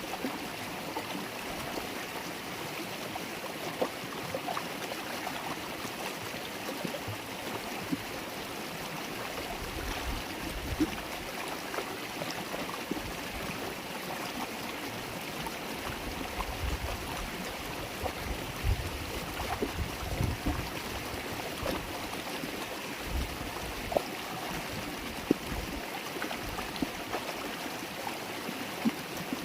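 River water babbling steadily over stones, with many small splashes and drips, and some irregular low rumbles through the middle.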